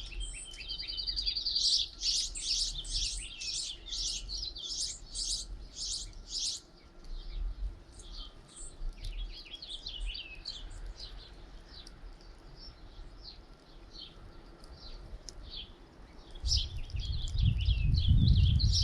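A flock of small songbirds chirping at a feeder, many short calls overlapping densely for the first several seconds, then thinning to scattered chirps. Near the end a low rumble comes in and grows louder.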